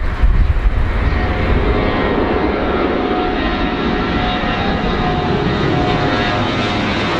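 Airplane engines running steadily: a dense, even roar with faint steady whining tones.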